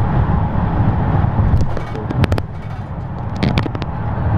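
Car on the move, heard inside the cabin: a steady low rumble of road and engine noise, with a cluster of sharp clicks and taps about two seconds in and a few more about three and a half seconds in.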